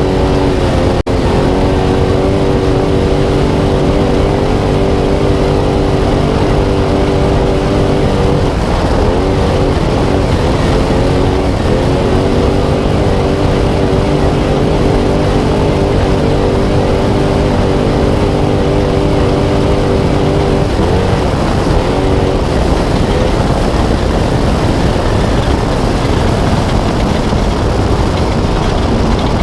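Spec Trophy Truck's V8 racing flat out off-road, heard onboard: a steady high engine note over a heavy rush of wind, tyre and terrain noise. About a third of the way in, and again after about 20 seconds, the engine note drops and climbs back as the throttle is lifted and reapplied, and for the last several seconds it is mostly buried under the rushing noise.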